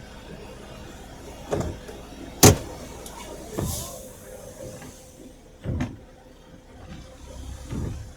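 Several separate knocks and thumps, the sharpest about two and a half seconds in, with a brief hiss just after, over a low steady rumble.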